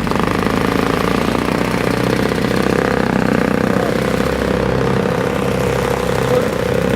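Snowblower's small gasoline engine running at a steady speed.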